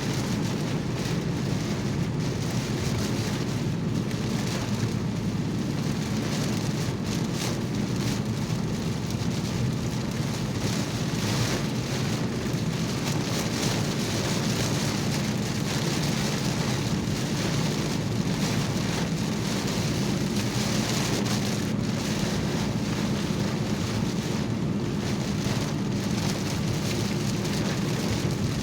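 Rain beating steadily on a moving car's roof and windshield, heard from inside the cabin over the steady low rumble of the car on a wet road.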